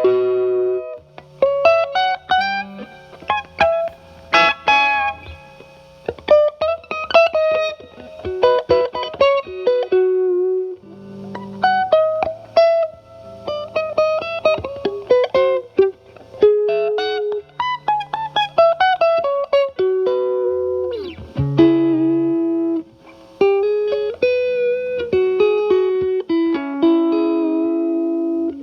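Fender Stratocaster with alnico single-coil pickups through a Paul Cochrane Timmy overdrive pedal set to low gain, into the clean channel of a Marshall Valvestate amp: lightly driven single-note lead phrases with string bends, mixed with a few chords.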